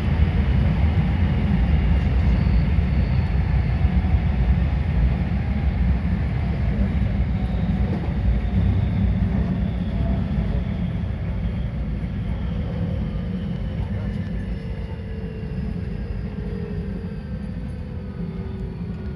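Electric commuter train heard from inside a passenger car, slowing as it pulls into a station. There is a steady low rumble of the wheels on the rails and a motor whine that falls slowly in pitch as it brakes. The sound grows gradually quieter.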